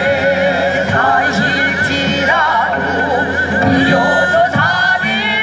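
Korean traditional ensemble music: a wavering melody line with heavy vibrato over a steady low accompaniment.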